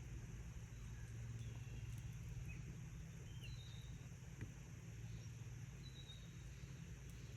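Faint high bird chirps, short slightly falling notes a few seconds apart, over a steady low hum.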